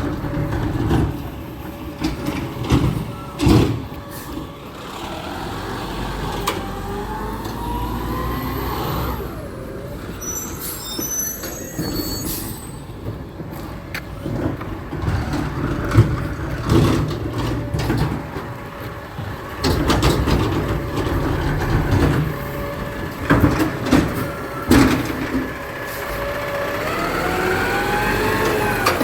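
Garbage truck running, its engine revving up twice with rising pitch, among repeated knocks and clanks.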